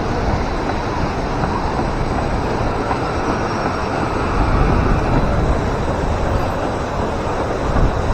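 Steady loud rushing and rumbling of churning water on a white-water raft ride, swelling slightly in the middle and with a brief surge near the end.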